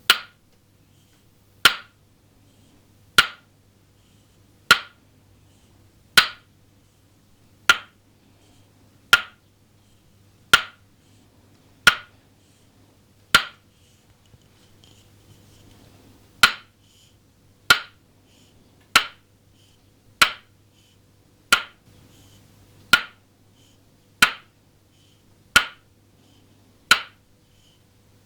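Toksen massage: a wooden mallet striking a wooden stake held against the body, giving sharp wooden knocks at a slow, even rhythm of about one every second and a half. There is a short pause near the middle, then the tapping resumes.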